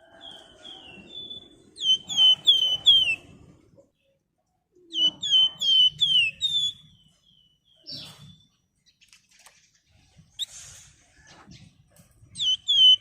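Songbird kept in Indonesia as the 'flamboyan' singing in three bursts of rapid, clear, down-slurred whistled notes, several notes per burst.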